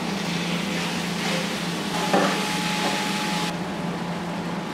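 Minced meat sizzling as it fries in a hot wok, with a spatula stirring it. The hiss drops away sharply about three and a half seconds in.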